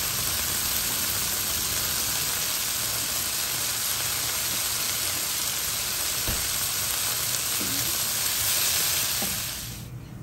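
Kaleji (liver) masala with whole cherry tomatoes and green chillies frying in oil in a nonstick pan: a steady, loud sizzle that cuts off suddenly near the end.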